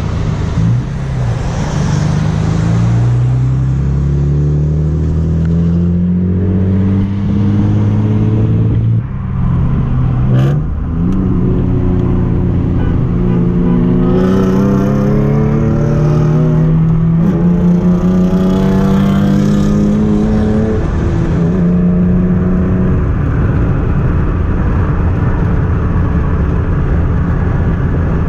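Car engine accelerating hard through the gears. Its pitch climbs steadily and drops back at each upshift, about four times, then holds steadier near the end under wind and tyre noise.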